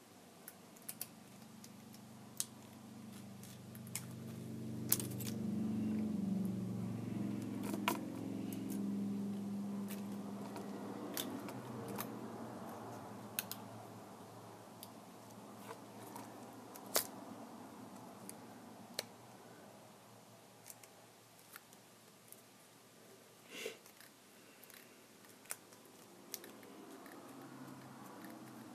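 Scattered sharp clicks and light taps of small repair tools on a tablet's plastic and metal parts, over a low hum that swells for several seconds in the first half and then fades.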